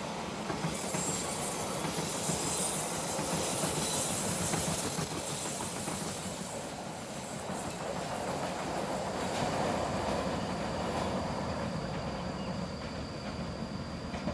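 KAI passenger train running by on the rails, a steady noise of wheels on track that eases off slightly in the last few seconds.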